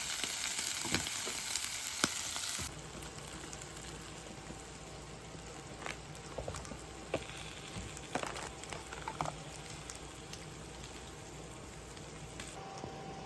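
Food sizzling in a hot pan, loud for the first two to three seconds before cutting off abruptly to a quieter sizzle with scattered light clicks and knocks.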